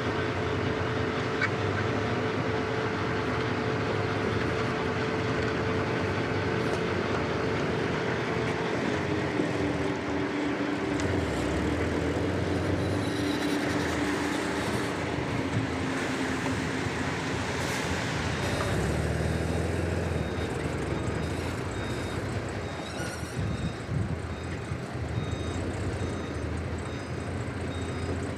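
Heavy earthmoving machinery working: diesel engines running with a steady note that drops in pitch about a third of the way through, over a constant mechanical rumble.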